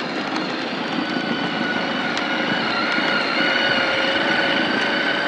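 A child's four-wheeler running steadily, its motor giving a high, even whine.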